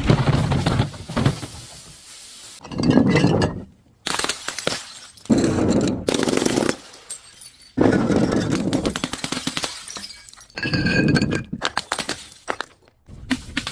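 Glass and other brittle objects being crushed, crackling and shattering in several separate bursts of a second or two each, most starting or stopping abruptly.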